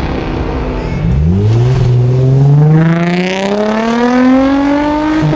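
Car engine accelerating hard, its pitch climbing steadily for about four seconds from about a second in, then dropping sharply near the end.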